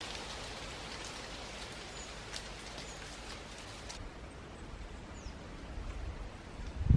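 Wood fire crackling in a fire pit: a steady soft hiss with scattered sharp pops and crackles.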